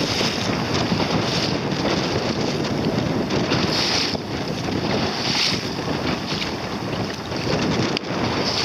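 Wind buffeting the microphone over the rush of water around a sailing boat under way, with a handful of brief hissing surges of splash or spray.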